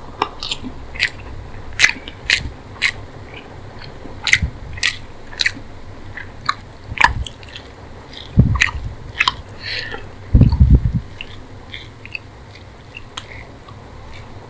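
Close-miked eating sounds of a mouthful of rice with chicken curry and boiled egg: wet chewing with sharp lip smacks and mouth clicks about once or twice a second. Loud dull thumps come about eight and ten seconds in.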